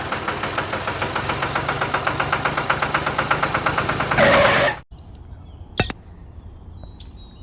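A small engine running with a rapid, even knocking beat. It swells louder just before it cuts off abruptly about five seconds in, leaving faint birdsong.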